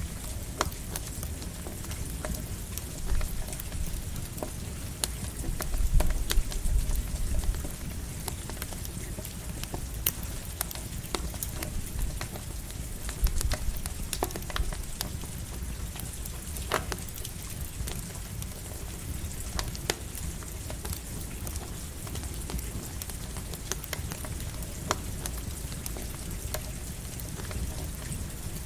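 Campfire crackling in steady light rain: an even hiss of rain with frequent sharp pops and snaps from the burning wood, and a low rumble that swells briefly about six seconds in.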